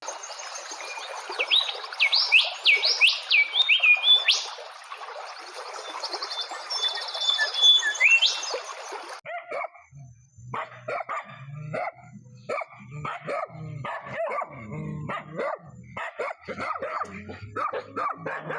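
Quick rising and falling bird chirps over a steady rushing noise for about nine seconds. Then an abrupt change to a dog barking in short, repeated calls.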